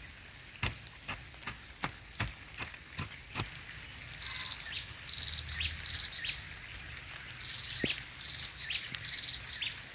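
A series of about eight sharp knocks, two or three a second, over the first three and a half seconds. Then a bird calls over and over in short, high chirping phrases.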